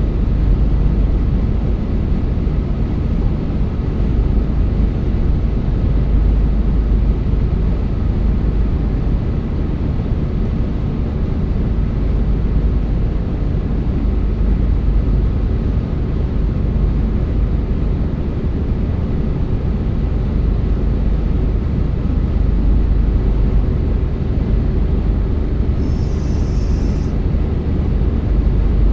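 Steady low rumble of tyre and engine noise inside a moving car's cabin. A brief high hiss comes in for about a second near the end.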